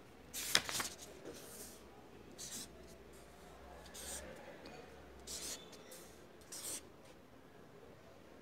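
Pen writing on paper in short scratchy strokes a second or so apart, with a sharper tap about half a second in.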